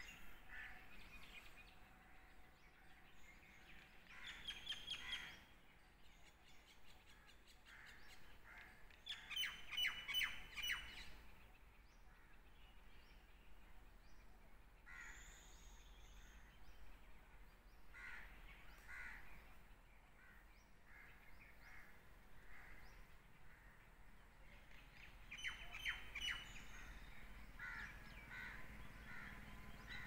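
Wild birds calling, faint overall. Three louder bouts of rapid, repeated harsh calls stand out: one a few seconds in, one near a third of the way through, and one near the end. Shorter scattered calls come in between.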